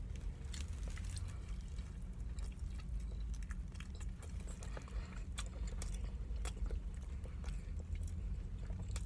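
Close-up chewing and lip-smacking while eating rotisserie chicken: scattered short wet clicks at an uneven pace over a steady low hum.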